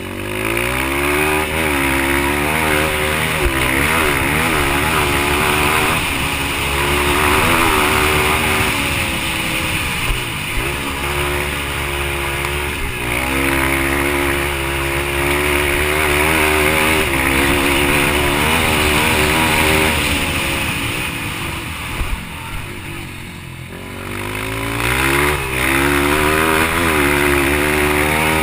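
Yamaha TT-R230 dirt bike's single-cylinder four-stroke engine run hard under racing throttle, its pitch rising and falling again and again. It eases off briefly near the end, then picks up again.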